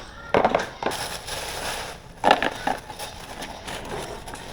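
Plastic grocery packaging crinkling and rustling as it is handled, in two louder bursts about two seconds apart.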